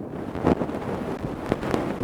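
Close-miked ear-cleaning tools scraping and rubbing in a microphone's ear: a dense crackle with many sharp clicks, loudest about half a second in.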